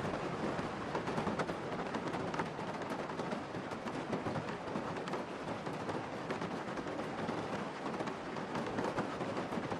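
Heavy rain hitting a moving car, a dense, steady patter of countless small drop hits.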